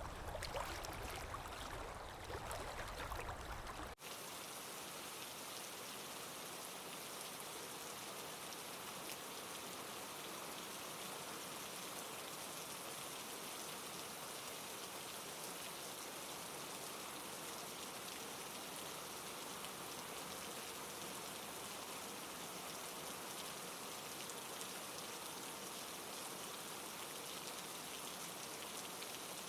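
Flowing, gurgling stream water that cuts off abruptly about four seconds in. It is replaced by a steady, even hiss of rain falling.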